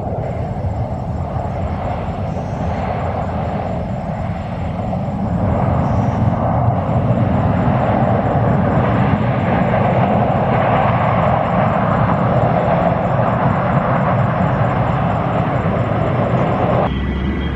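Jet airliner engines making a steady rumble and hiss that grows louder about five seconds in and stays strong. The sound changes abruptly just before the end.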